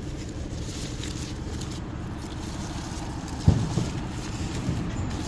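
A small engine or motor running steadily with a low drone, and one sharp thump about three and a half seconds in.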